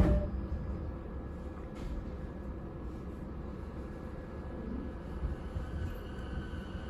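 E217 series electric train running, heard from inside the car: a steady low rumble of wheels on the rails, opening with a sharp knock. A faint high tone comes in near the end.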